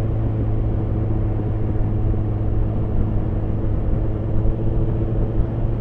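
Yamaha FZ1N motorcycle's inline-four engine running at steady revs, heard through a helmet camera over a low rumble of wind and road noise.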